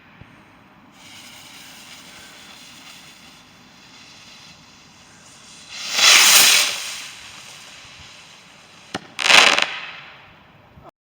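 Firework rocket: a faint fuse hiss for a couple of seconds, then a loud rushing burst of noise about six seconds in as it goes off, and a second, shorter burst about nine seconds in.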